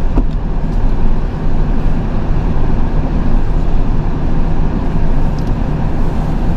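Tow truck's engine running steadily, a continuous low rumble.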